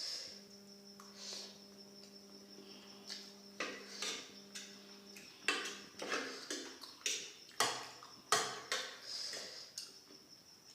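Eating noises of someone eating chow mein and gobi manchurian: chewing, and a utensil clicking and scraping against a plate. A quick run of sharp clicks comes in the second half.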